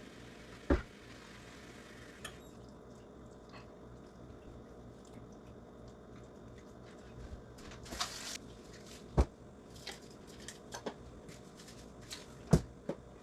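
Kitchen handling sounds while seasoning and oiling raw chicken: pots and dishes clunk sharply a few times (about a second in, around nine seconds and near the end), with soft wet handling noises and a brief hiss a little after eight seconds.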